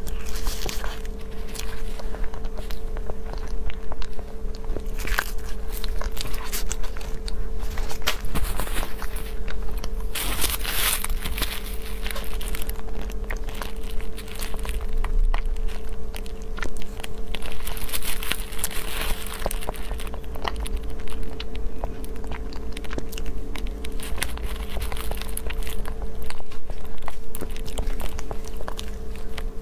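Close-miked eating: biting into and chewing soft food, with many small clicks and smacks of the mouth.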